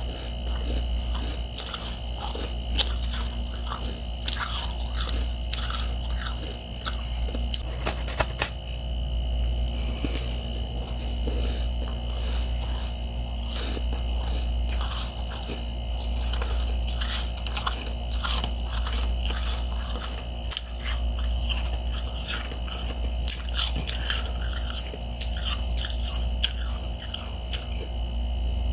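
Close-miked chewing and biting of slushy, powdery freezer frost: many irregular small crunches and crackles throughout, over a steady low hum.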